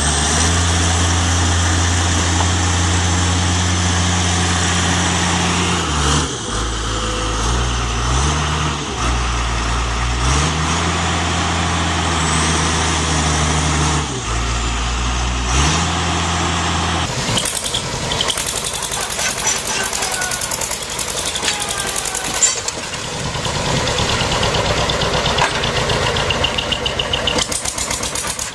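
Heavy diesel engine running hard, its pitch dropping and rising several times as the revs change. About seventeen seconds in, the sound cuts suddenly to another, rougher engine with a fast rattle.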